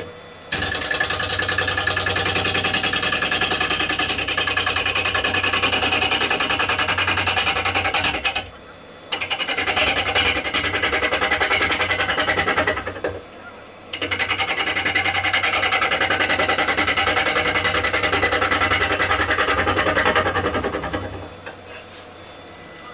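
Bowl gouge cutting a rowan bowl blank spinning on a wood lathe, with a rapid rattling cut, in three long passes with brief pauses between them, over the lathe's steady hum.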